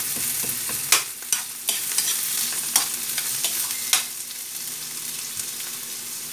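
Chopped onions and garlic sizzling in oil in a steel wok, with a spatula scraping and clinking against the pan about five times in the first four seconds. The sizzling goes on a little quieter after the stirring stops.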